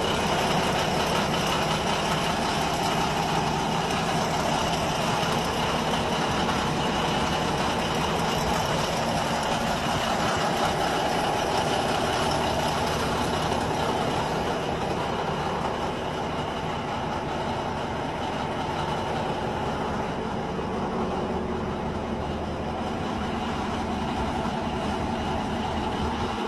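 Caterpillar D9 bulldozer's diesel engine running steadily after start-up, a little quieter from about halfway through.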